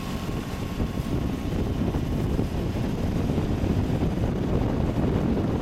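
Wind buffeting the microphone aboard a sailboat under way: a steady low rumble with no clear engine note.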